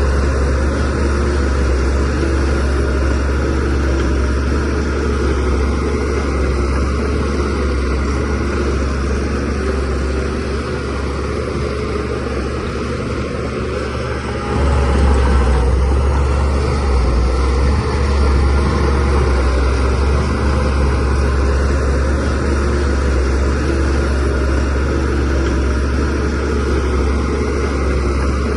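DH17C3PRO bulldozer's diesel engine running steadily as the machine works, growing louder about halfway through.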